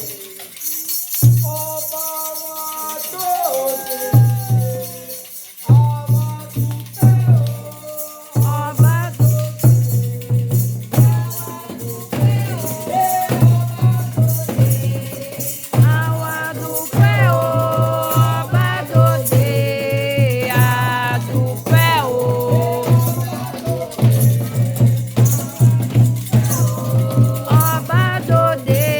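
Candomblé ritual music for Xangô: singing voices over a fast, steady drum beat and a shaken rattle. The drums pause briefly a few times near the start, then keep an unbroken rhythm.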